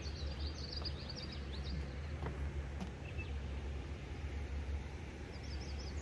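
Songbirds chirping: a quick series of short high notes, a single brief note about halfway, and another run of chirps near the end, over a steady low rumble.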